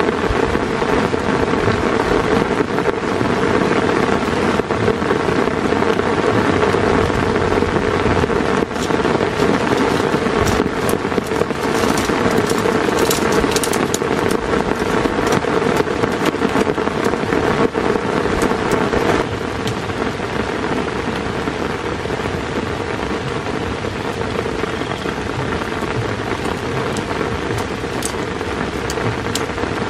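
Heavy rain falling steadily, with sharp drop ticks scattered through the middle; it eases slightly about two-thirds of the way through.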